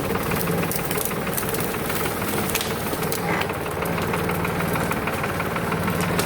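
Four-wheel-drive farm tractor's engine running steadily, with frequent light clicks and rattles over it.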